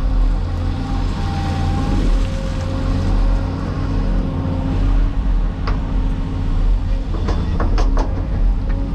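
Cat 336E hydraulic excavator's diesel engine running steadily with a deep drone, with a series of sharp knocks or clanks in the second half.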